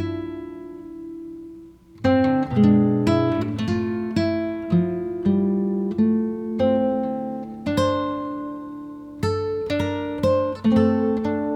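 Acoustic guitar music, slow plucked notes and chords each ringing and dying away. A chord fades out over the first two seconds before the picking starts again.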